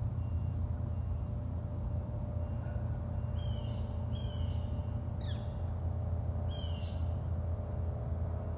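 Birds calling in short downward-sliding notes, several spaced a second or so apart with one sharper call about five seconds in, over a steady low rumble.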